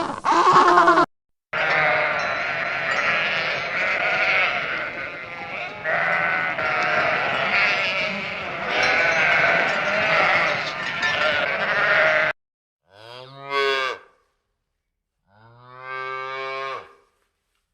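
A flock of sheep bleating, many calls overlapping for about ten seconds, followed near the end by two single bleats from one animal.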